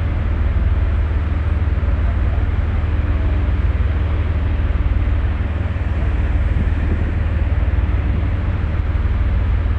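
Steady low rumble with an even rushing noise on board a passenger ferry under way.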